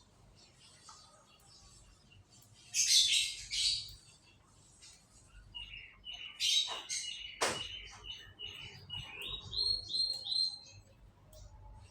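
Canary singing: a loud burst of high chirps about three seconds in, then a run of repeated notes with quick trilled phrases toward the end.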